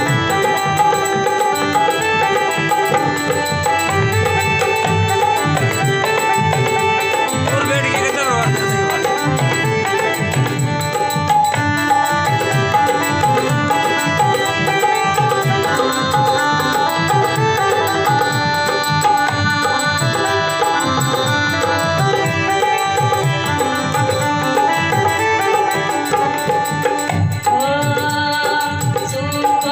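Instrumental passage of a live Rajasthani folk devotional song: a tabla-like hand-drum rhythm under sustained melodic instrument lines, played loud and steady.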